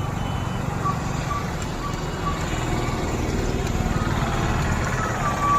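Engine running steadily with a low rumble. Several short high beeps sound in the first half, and a longer beep at the same pitch starts near the end.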